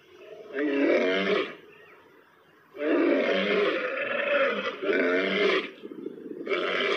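Male lions roaring: four loud roars of a second or two each, with a short lull about two seconds in.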